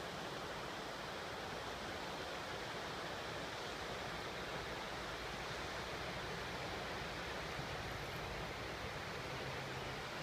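Steady rushing of river water, an even noise without breaks, with a faint low hum coming in near the end.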